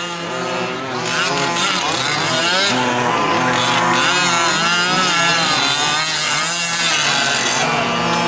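Several 1/5-scale gas RC trucks' small two-stroke engines racing, their overlapping pitches rising and falling as the throttles open and close.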